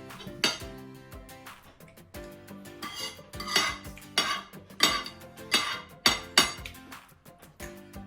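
A spoon clinking and scraping against a soup bowl while eating: one sharp clink about half a second in, then a run of about six more in quick succession. Background music plays underneath.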